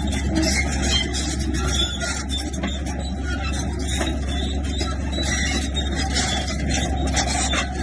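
Komatsu bulldozer's diesel engine running steadily under load, with frequent short clanks, likely from its steel tracks and blade working stone.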